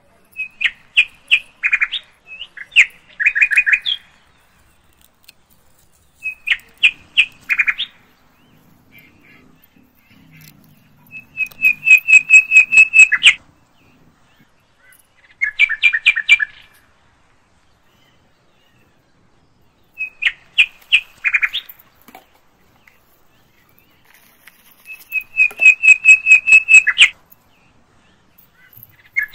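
Bird chirping in bursts of rapid, high, clear notes, some run together into quick trills, with short silences between. It is a recording on a loop: the same sequence of bursts comes back about every fourteen seconds.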